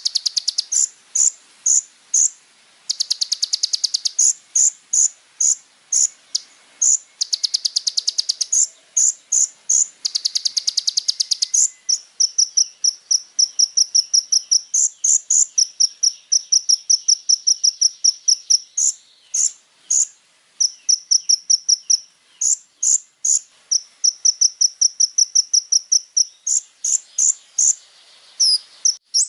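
Kolibri ninja sunbird singing a long, high-pitched song: fast buzzy trills in the first half, then quick runs of short, evenly repeated chirps, several per second.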